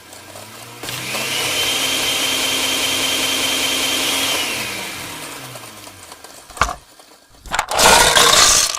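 A small electric motor spins up, runs steadily with a high whine for about three seconds, then winds down with falling pitch. A sharp click and a short, loud rustling noise follow near the end.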